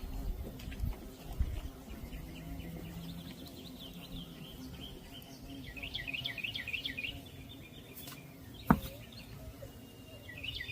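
A songbird singing a rapid run of quick repeated chirping notes that builds to its fullest past the middle, with a single sharp click near the end.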